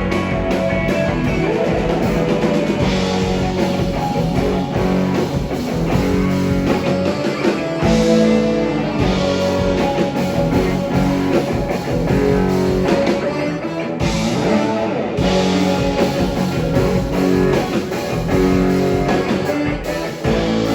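Live rock band playing: guitar over a drum kit, at a steady loud level.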